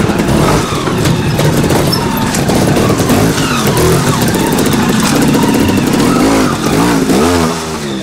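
Trials motorcycle engine revving in short blips, its pitch rising and falling quickly several times near the end as the rider works the throttle over an obstacle.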